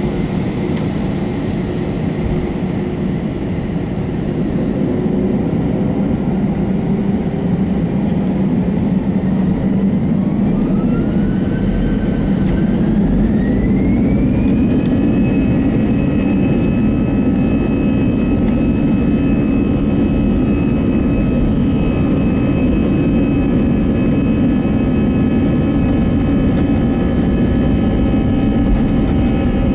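Airbus A320 jet engines spooling up to takeoff thrust, heard inside the cabin: a whine climbs in pitch over about five seconds, about ten seconds in, then holds steady over a heavy rumble.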